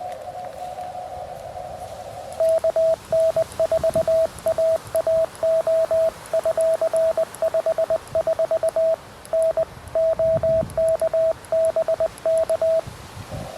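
Morse code (CW) from a QRP Labs QMX transceiver: a single steady tone keyed in dots and dashes for about ten seconds, after a couple of seconds of hiss from the receiver's narrow CW filter. The hiss drops out between the keyed elements, typical of the rig's own transmit sidetone with the receiver muted. The narrow hiss returns near the end.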